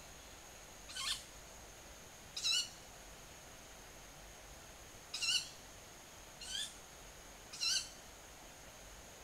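Five short, high-pitched calls from an unidentified night bird, several of which fly low overhead; the uploader wonders whether they are young owls. Each call is a brief wavering note, spaced irregularly one to three seconds apart, over a faint steady high-pitched tone.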